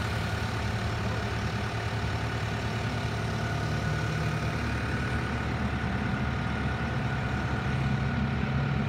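A vehicle engine idling steadily, its pitch rising slightly about five seconds in.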